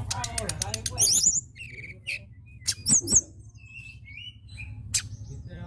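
Caged tledekan gunung songbird calling: rapid clicking notes, then short, very high chirps and quick sweeping whistles. The loudest come about three seconds in, over a steady low hum.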